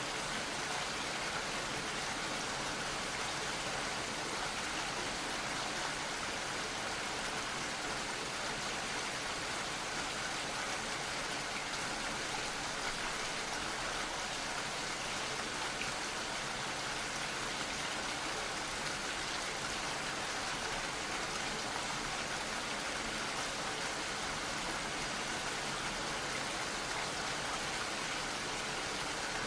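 Gentle steady rain, an even hiss of falling drops with no change in strength.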